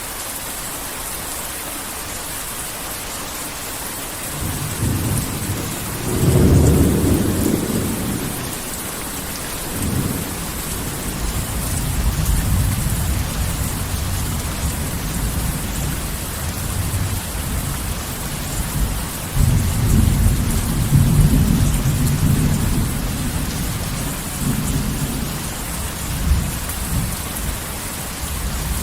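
Heavy rain falling steadily with low rolling thunder. The thunder starts about five seconds in, is loudest a couple of seconds later, then rumbles on and swells again past the middle.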